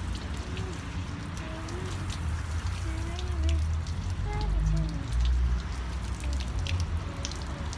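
Garden hose spray nozzle spraying water onto a car's bodywork: a steady hiss of water striking the panels, with many small drips and splashes. Low rumbles on the microphone swell a few times.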